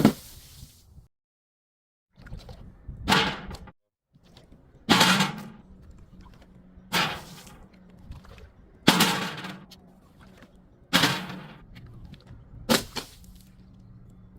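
A series of sharp crushing cracks as objects are broken one after another: six of them, about two seconds apart, each fading out quickly, over a faint steady hum.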